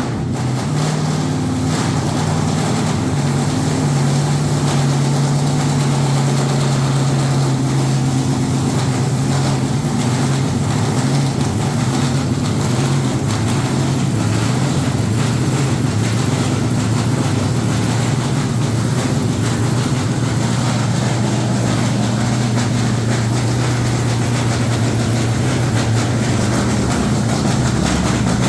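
LS V8 engine in a truck idling steadily and loud, just after its first fire-up. The note wavers slightly now and then.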